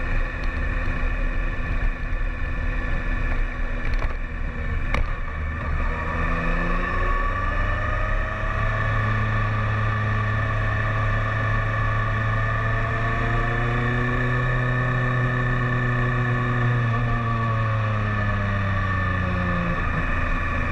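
BMW K1300S inline-four engine, heard from on the bike while riding. It runs low and steady at first, climbs in pitch about six to eight seconds in as the bike accelerates, holds a steady speed, then drops again near the end as it slows. Two sharp clicks come about four and five seconds in.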